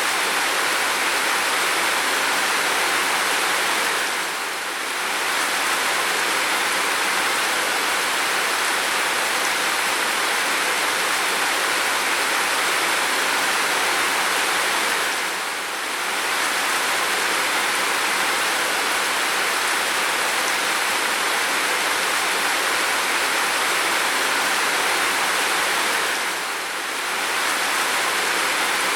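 Heavy rain falling, a steady dense hiss with little low rumble, dipping briefly in level about every eleven seconds.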